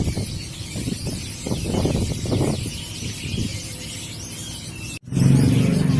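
Bird market ambience: many small caged birds chirping faintly over a murmur of voices and passing traffic. It cuts off abruptly about five seconds in, and a steady low-pitched hum follows.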